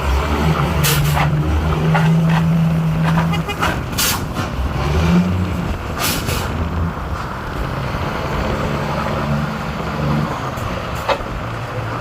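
Scania truck's diesel engine running at low revs, its pitch rising and falling, with several short air-brake hisses.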